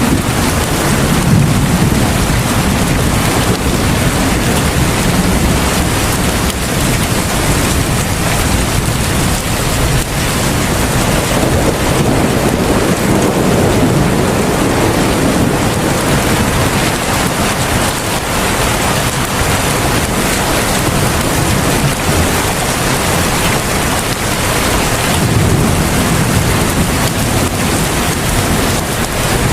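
Heavy rain pouring steadily, a dense even hiss, with a low rumble swelling and fading three times.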